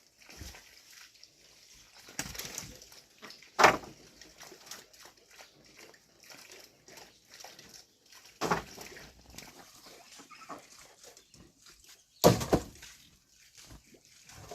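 Pigs feeding on wet mash, slurping and sloshing in irregular bursts, four of them louder than the rest.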